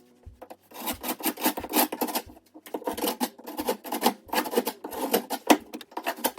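Irregular scraping and rubbing: many quick, rough strokes, uneven in loudness.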